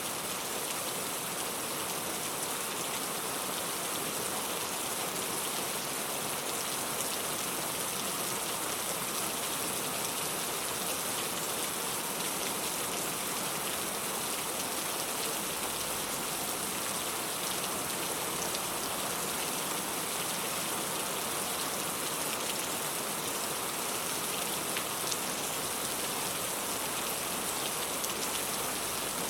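Steady rain, a dense even hiss of drops falling on a surface, with scattered fine drop ticks.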